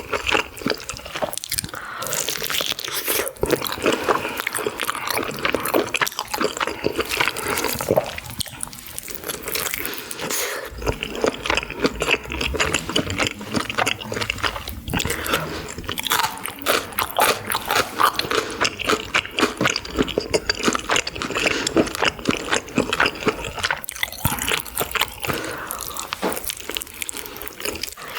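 Close-miked eating sounds: continuous chewing and biting with wet mouth noises and crisp clicks.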